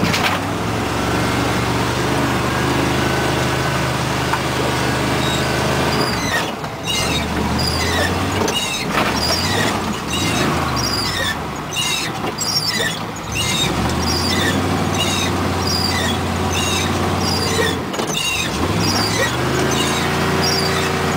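1960s Fargo truck's engine running under load as the truck pushes through deep snow, its pitch dropping and climbing again twice. From about six seconds in, a short high squeak repeats steadily, roughly every 0.7 seconds.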